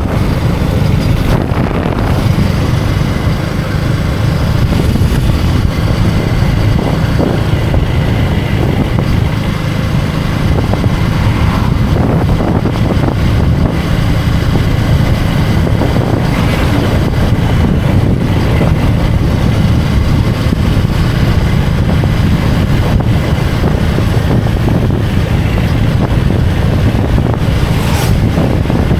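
Motorcycle engine running steadily under way, with heavy wind rumble on the microphone. A brief sharp sound stands out near the end.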